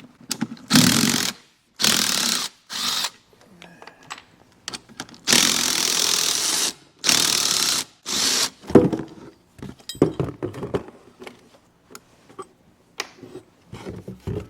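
A power drill-driver backing out screws in six short runs, each lasting a second or so, with the longest near the middle. Light clicks and knocks of parts being handled follow.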